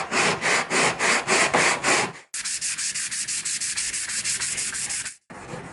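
Wood being sanded by hand with sandpaper in quick back-and-forth strokes, about five a second. It cuts off abruptly twice and resumes each time with a lighter, hissier stroke.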